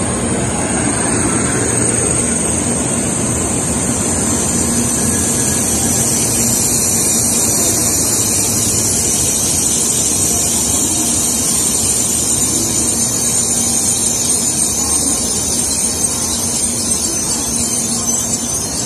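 Tokaido Shinkansen train running past along the station platform: a steady loud rush of wheel and running noise with a strong high hiss. It drops away near the end as the train clears.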